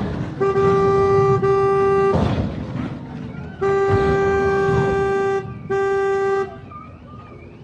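Vehicle horn sounding in three long blasts, each holding one steady pitch, over a low rumble.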